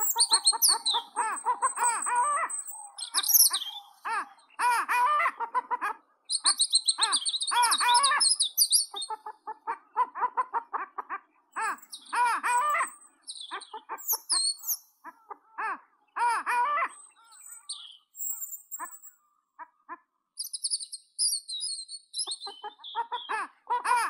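Several birds calling: loud runs of quick, repeated lower calls, with thin high chirps and short twittering phrases over them and two brief pauses.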